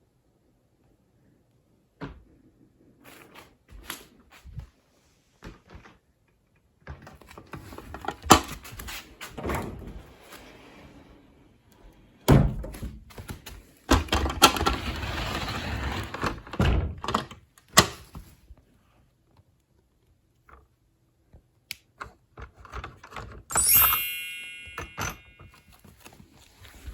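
Scattered thumps and knocks, as of a cat moving about on a piano, and about 24 seconds in a high piano note sounds and rings out, fading.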